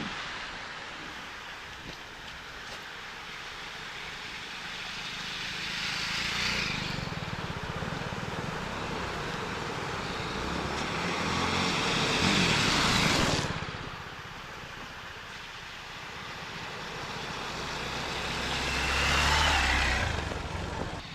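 Off-road motorcycle engines under a steady drone, swelling and fading three times with a rushing noise at each peak, as bikes pass one after another.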